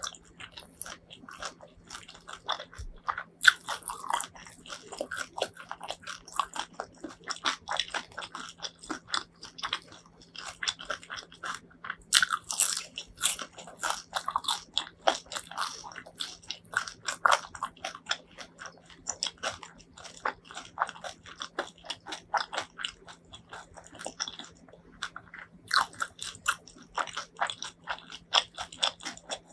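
Close-miked crunchy biting and chewing of crispy fried chicken, a dense run of irregular crackles and crunches, over a faint steady hum.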